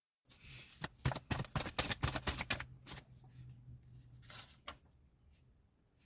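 Cards being shuffled: a quick run of crisp snaps for about three seconds, then a few softer ones, over a low steady hum that stops partway through.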